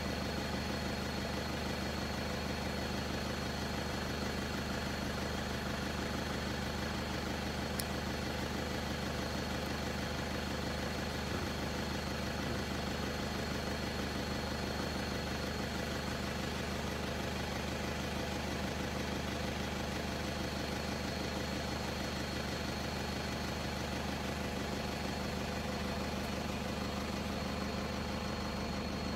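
Vehicle engine idling steadily, an even low hum with a faint steady high whine over it.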